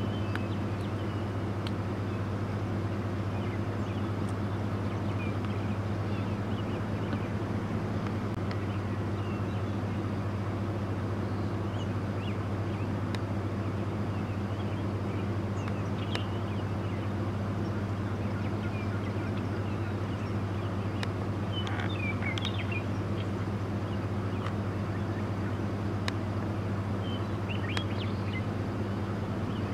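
A vehicle engine idling with a steady low hum, while small birds chirp here and there.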